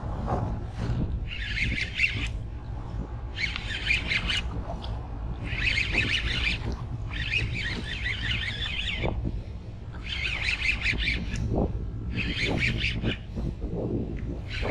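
Fishing reel buzzing in about six bursts of a second or so while a hooked mangrove jack is fought, over a steady low rumble of wind on the microphone.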